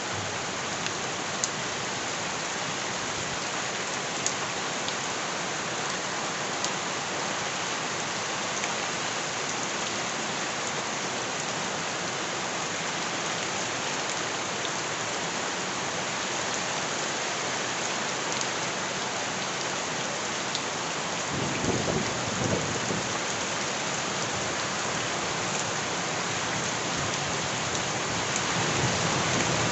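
Steady heavy rain falling, with scattered sharp drop ticks. A brief low rumble comes about two-thirds of the way through.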